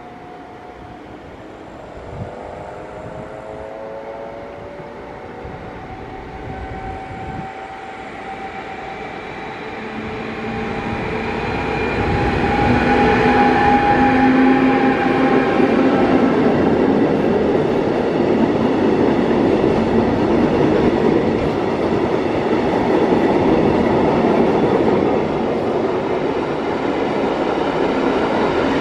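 A container freight train hauled by an ÖBB electric locomotive approaches and passes. A rumble builds up, and the locomotive's steady electric whine and hum are loudest as it goes by about halfway through. After that come the even rumble and rattle of the flat container wagons rolling past.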